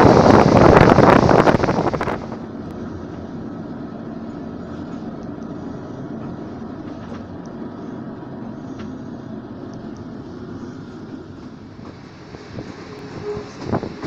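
Moving passenger train heard from the carriage window: loud wind buffeting on the microphone, which cuts off suddenly about two seconds in, then the steady rumble of the wheels running on the track, with a few sharp knocks near the end.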